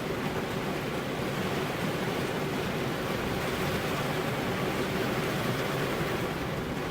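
Heavy rain falling steadily, an even hiss with no thunder or other breaks.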